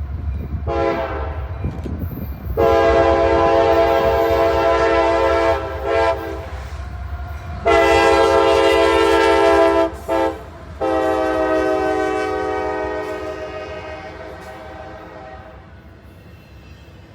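Diesel locomotive air horn sounding a series of loud blasts over the low rumble of the train, ending long, long, short, long, the pattern of a grade-crossing signal; the last blast trails off and fades.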